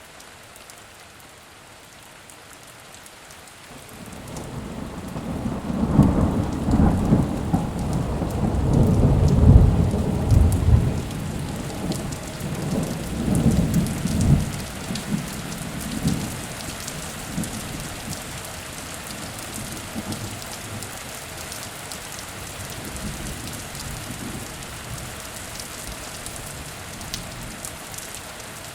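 Heavy rain falling steadily, with a long roll of thunder that builds a few seconds in, peaks, and rumbles away over about ten seconds.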